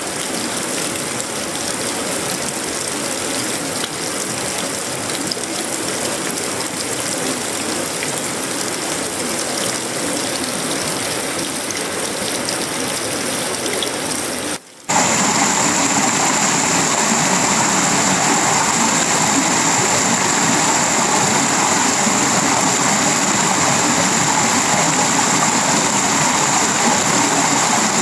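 Heavy tropical rain pouring steadily onto a sheet-metal roof, wood and leaves. About halfway through it cuts out for a moment and comes back louder, with a steady high hiss on top.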